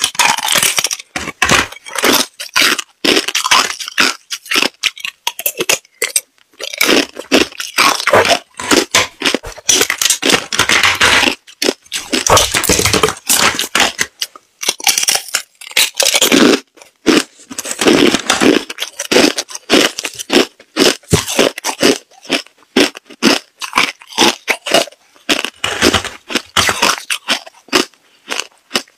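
Close-up crunching of hard ice being bitten and chewed: dense runs of sharp cracks and crackles, broken by short pauses between bites.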